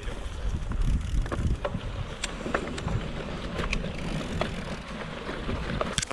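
Wind buffeting the microphone, a steady low rumble, with scattered clicks and ticks over it.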